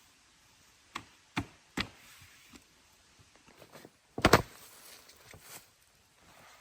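A few sharp knocks, one about every half second early on, then a louder cluster of two or three hits just after four seconds, with softer taps and clatter in between.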